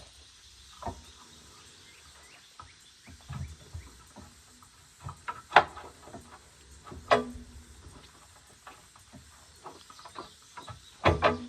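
Scattered knocks and metallic clinks of hand tools and parts being handled during a skid steer teardown, two louder clanks in the middle ringing briefly.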